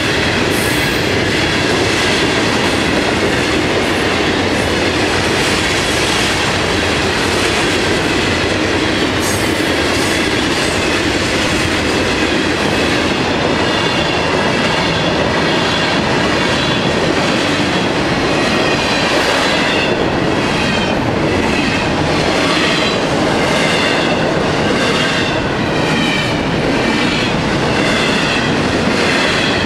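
Florida East Coast freight cars (hoppers, autoracks, then double-stack container well cars) rolling past close by: a loud, steady rumble and rattle of steel wheels on rail. In the second half the wheel noise beats about once a second.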